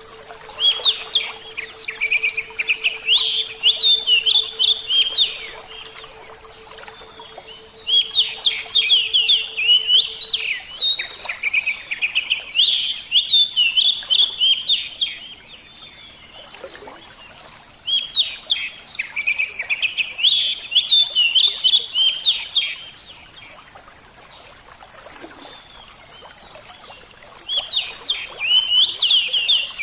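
Oriental magpie-robin singing in four bouts of rapid, varied chattering phrases, each a few seconds long, with short pauses between them. A faint steady hum sits under the first third.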